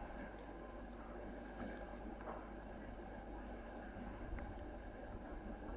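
Small songbird giving short, high call notes that slide downward, about five of them a second or two apart, with fainter thin, very high notes between.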